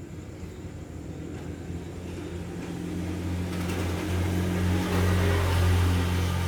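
A motor vehicle's low engine hum, growing louder from about halfway through and starting to ease near the end, like a vehicle passing close by.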